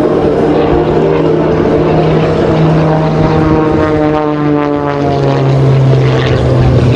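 MXS-RH aerobatic monoplane's piston engine and propeller running loud in flight. Its note drops slightly in pitch about five seconds in.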